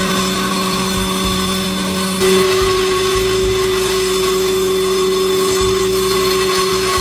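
Electric motor of a combination planer and circular saw machine running steadily, its hum stepping up in pitch with a brief rise in loudness about two seconds in.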